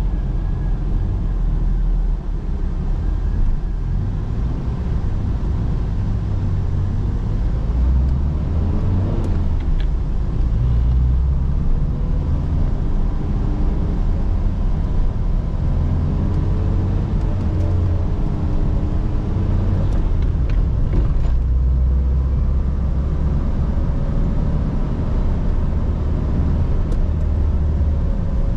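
1983 Toyota Corolla KE70's 1.3-litre carburetted four-cylinder engine running on the move over a steady low road rumble. The engine note climbs and drops back several times, about nine seconds in and again around the middle.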